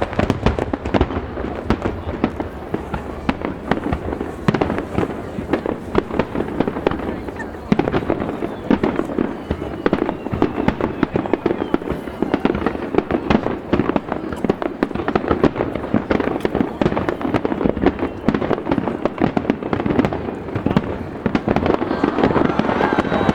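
Fireworks display: a rapid, unbroken barrage of shell bursts and crackling, with a few faint rising whistles near the end.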